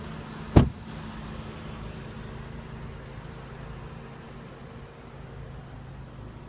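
A single sharp thump about half a second in, the trunk lid's latch releasing as the trunk is popped, followed by a steady low hum.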